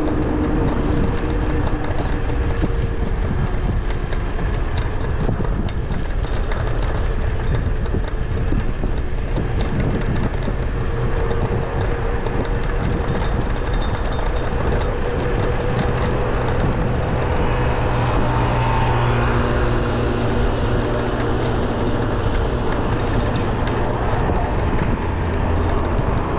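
Steady traffic and road noise with wind rushing over the microphone, heard from a moving electric bicycle in city streets; the tones of passing vehicles come and go.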